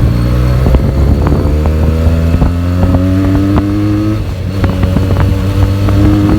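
Benelli TNT 300's parallel-twin engine on its stock exhaust, pulling up through the revs with the pitch climbing steadily. About four seconds in the pitch drops as it shifts up, then climbs again. Short sharp cracks run through it.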